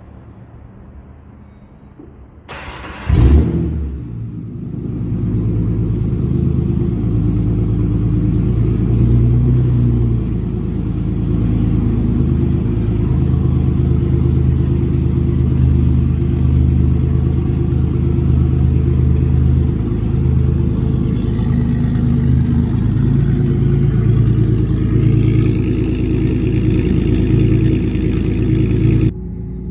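Ford Mustang 4.0-litre V6 with a straight-piped exhaust that keeps its catalytic converters, no mufflers: the engine is cranked and fires about three seconds in, then idles steadily with a loud, deep exhaust note.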